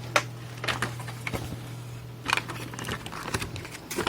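Hands handling the opened recorder's circuit board and plastic casing: a series of irregular clicks, taps and light rattles, over a steady low hum.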